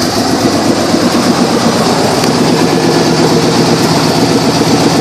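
1991 Chevrolet Silverado 1500 pickup engine idling steadily, with an even running note and no revving.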